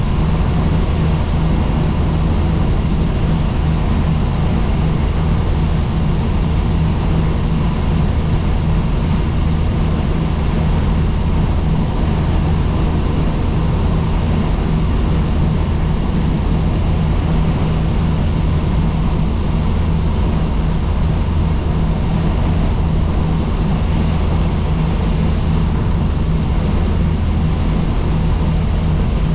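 Helicopter in flight: a steady, loud drone of rotor and engine noise, deepest and strongest in the low end, with no change in pitch or level.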